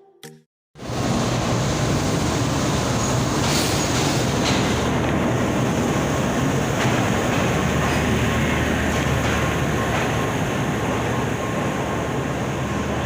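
Passenger express train running through the station, a steady rumble of wheels and carriages on the track over a low hum, with occasional clicks. It starts abruptly about a second in.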